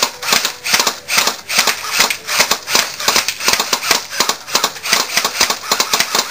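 Three airsoft guns firing in quick succession, a steady run of sharp cracks at about five or six shots a second.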